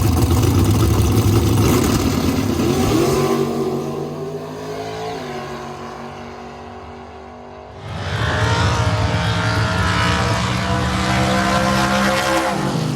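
Drag race car engine running hard at full throttle, fading away from about three seconds in; a loud stretch of engine starts abruptly about eight seconds in and falls off near the end.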